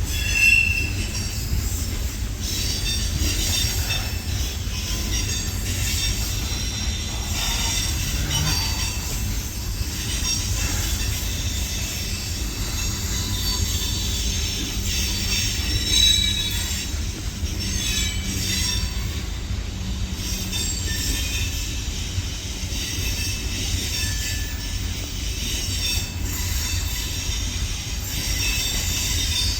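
Train running on the rails: a steady low rumble with high-pitched wheel squeal throughout.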